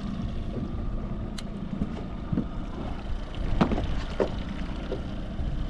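Boat motor running steadily at trolling speed, with wind on the microphone, a sharp click about a second and a half in and a few short knocks a little past halfway.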